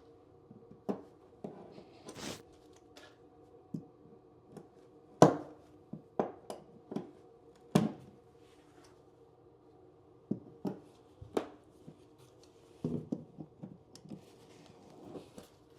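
Staples being pried and pulled out of a plywood subfloor: irregular metallic clicks, scrapes and sharp snaps, the loudest about 5, 8 and 11 seconds in, over a faint steady hum.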